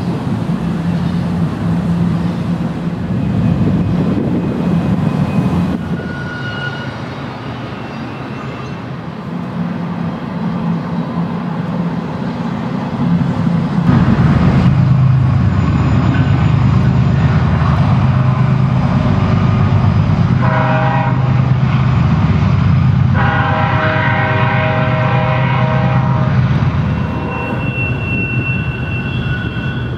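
A diesel freight train passing, with steady wheel and engine noise that grows louder about halfway through. Its horn sounds twice, a short blast and then a longer one, about two-thirds of the way through.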